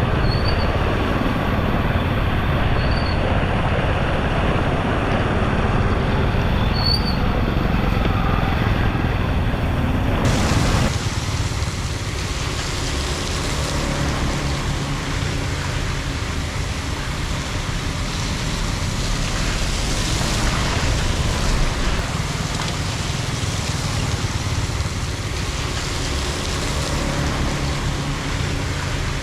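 Floodwater rushing steadily into a storm drain, a continuous noisy rush with a few bird chirps in the first part. About ten seconds in the sound changes abruptly to a brighter, hissier rush.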